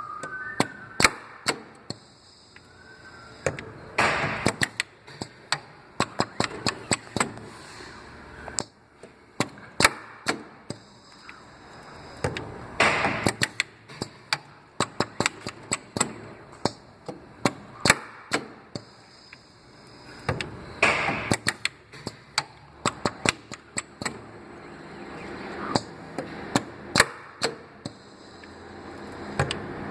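Custom CNC pin welder working through its cycle of snipping stainless steel wire and spot-welding it: a steady run of sharp clicks and snaps, with a longer noisy burst about every eight seconds.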